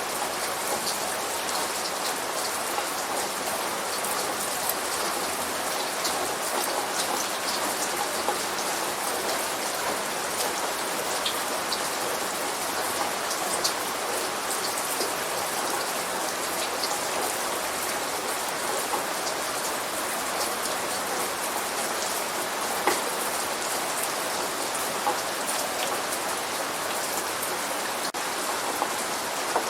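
Steady light rain falling, with scattered single drops ticking on a hard surface. No thunder.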